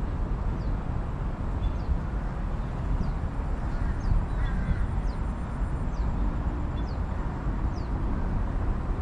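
A steady low rumble of outdoor ambience, with a small bird repeating a short, thin falling call about once a second.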